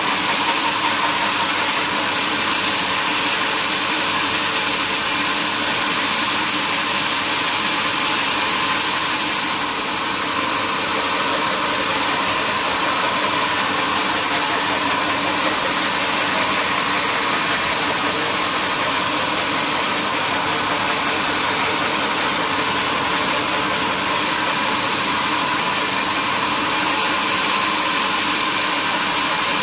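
Sawmill machinery running steadily: an even, hissing machine noise with a steady hum, dipping slightly about ten seconds in.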